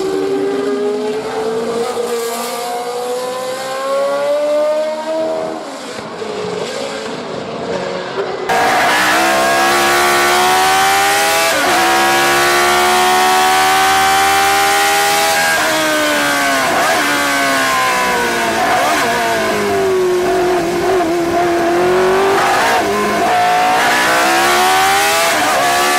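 Cosworth DFV 3.0-litre V8 racing engine revving hard, its pitch climbing and then dropping sharply again and again through the rev range. About eight seconds in the sound jumps abruptly louder and brighter.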